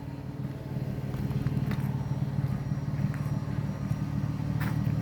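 Car engine idling steadily, a low even rumble, with a few faint ticks over it.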